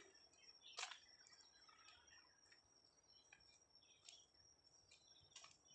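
Near silence: faint trail ambience with a steady high-pitched insect trill, scattered faint bird chirps, and two brief clicks, one about a second in and one near the end.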